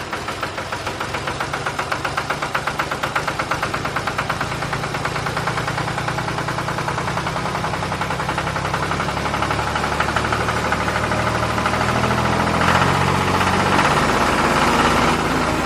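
A motor running with an even chugging pulse of about five beats a second, growing a little louder near the end.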